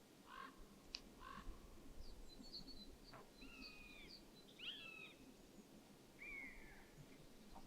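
Faint bird calls: a scatter of short high chirps and several short whistles that bend down in pitch at the end, over a quiet background hush.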